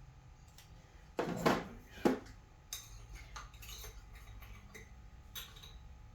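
Small metal tools or parts clinking and clattering as they are handled, with two louder knocks about a second in and a string of lighter clicks after.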